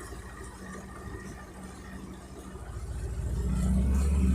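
Boat's outboard motor running with a steady low hum, growing much louder over the last second and a half.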